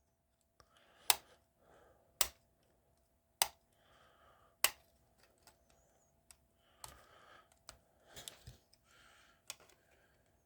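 Sharp clicks from a hobby blade prying at the glued plastic parts of a scale model car: four crisp snaps about a second apart, then softer ticks and scraping.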